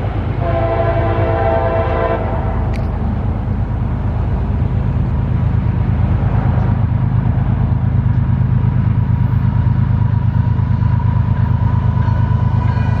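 A freight train's diesel locomotive sounding its horn in a chord blast that cuts off about two seconds in, then a loud, steady rumble of the locomotive and train passing. The horn starts up again near the end.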